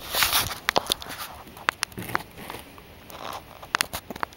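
Scattered sharp clicks and rustling, with a rustly burst at the start, like a phone or camera being handled.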